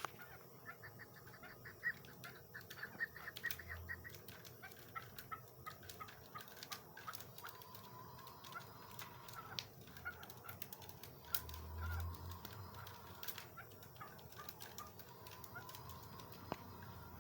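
Chukar partridge calling: runs of short repeated notes, quickest in the first few seconds and more scattered after, with occasional sharp clicks.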